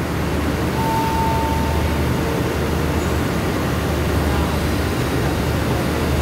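Stationary passenger train idling at the platform: a steady low rumble from its running engines, with a short faint tone about a second in.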